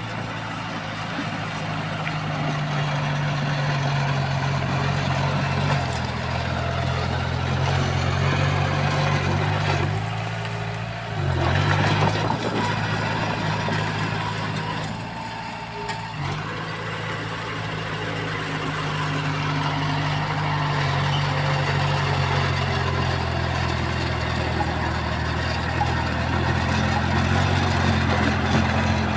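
Diesel engine of heavy earthmoving machinery running steadily, with a louder, noisier surge about eleven seconds in.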